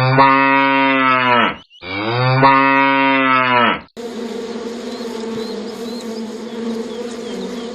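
Cow mooing twice, two long, loud calls of about two seconds each. From about four seconds in, a steady hum with faint high chirps in the background.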